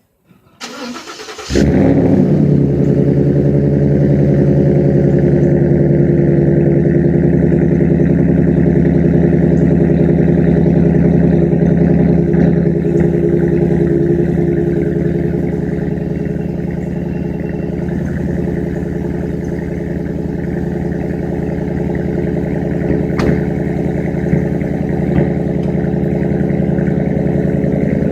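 Cold start of a 2013 Ford F-150's Coyote 5.0 V8 through a Flowmaster Outlaw Series exhaust: the starter cranks briefly, the engine catches about a second and a half in, and it then idles steadily, getting a little quieter about halfway through.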